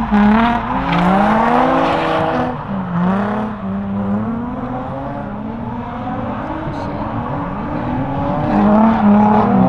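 Car engine revving hard during drifting, its pitch rising and falling over and over as the throttle is worked, with a rush of noise in the first two seconds.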